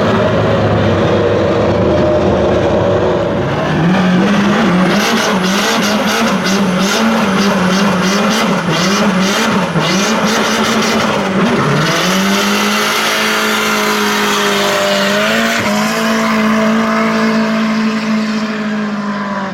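Car doing a burnout: the engine is held at high revs with the wheels spinning and the tyres squealing. The revs jump up about four seconds in and waver, then hold steady for the rest, and the sound cuts off abruptly at the end.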